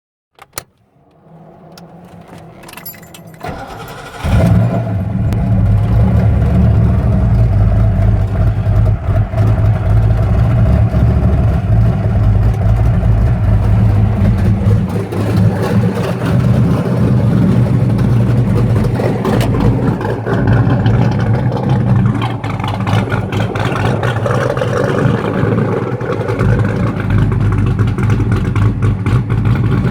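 Cold start of a Fox-body Ford's engine: a click, about four seconds of cranking, then it catches and runs loud and steady, with some variation in speed later on.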